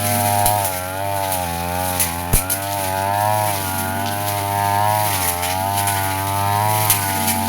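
Brush cutter running at high speed, its spinning blade cutting grass, the engine pitch wavering up and down as the blade takes the load, with a few sharp clicks of the blade striking stems.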